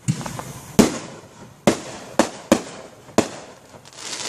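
Aerial fireworks bursting: five sharp bangs over about two and a half seconds, the first about a second in being the loudest, followed by a hiss that swells near the end.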